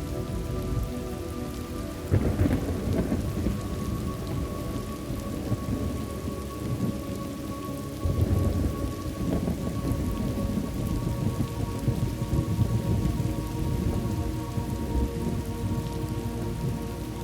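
Steady rain falling, with low rolls of thunder that swell up suddenly about two seconds in and again about eight seconds in.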